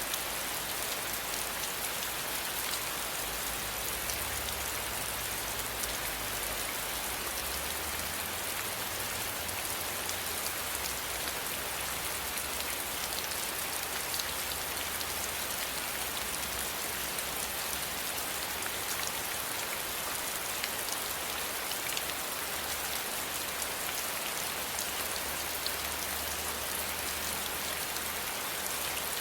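Steady rainfall, a dense even patter of raindrops on a surface with many small drop ticks.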